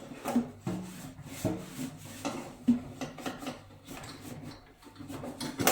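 A cleaning cloth rubbing back and forth over a surface in short, irregular strokes, about two a second.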